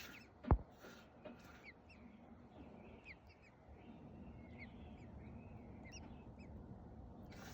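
Faint, high, short peeps repeated irregularly, from newly hatched American robin nestlings in the nest. A single thump sounds about half a second in.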